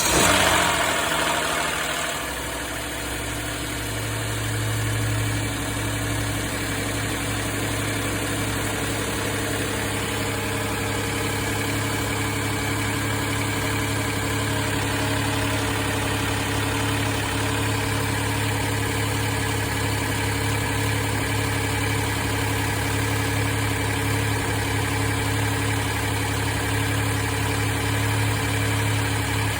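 Kia car engine idling just after a cold start, a little louder in the first couple of seconds and then settling into a steady idle with a strong low drone. It carries the cold-start vibration the owner is investigating.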